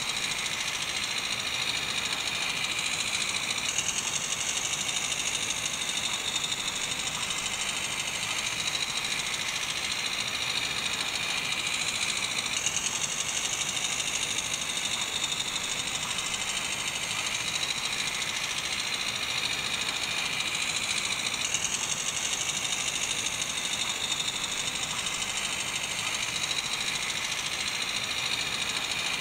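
Garden-railway model train running steadily along the track: a continuous mechanical whir of the small motor, gears and wheels on the rails.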